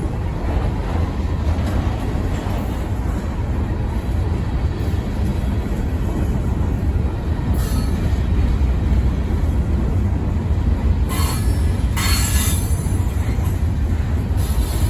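Freight train cars rolling past with a steady low rumble, broken by a few short high-pitched wheel squeals about halfway through and again in the last few seconds.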